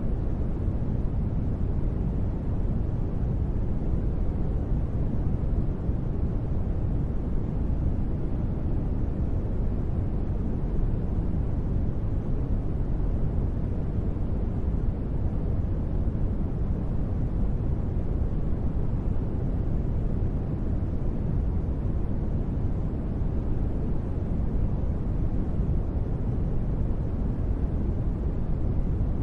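Steady ambient noise, deep and even, with most of its weight low and little hiss up top; it holds level with no changes or events.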